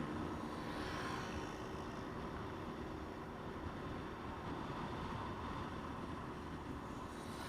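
Motorcycle running on the move, its engine mixed with steady wind and road noise.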